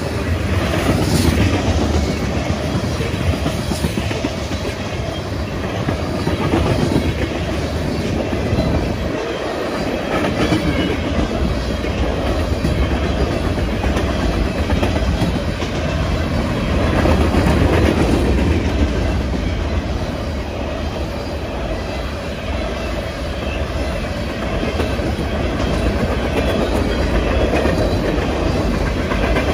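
Freight cars of a long train passing at about 50 mph, first tank cars and then empty open-top trash cars. Their steel wheels give a steady rumble and clatter on the rails.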